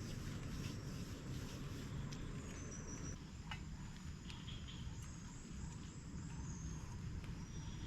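Outdoor campsite ambience: a steady low rumble with scattered drip-like ticks and a few short high chirps.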